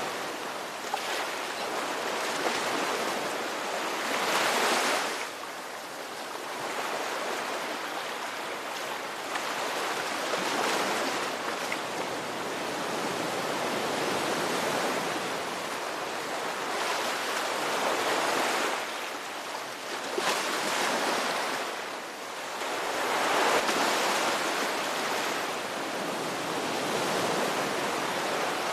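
Ocean waves breaking and washing on a shore, a steady rush of surf that swells louder every few seconds as each wave comes in.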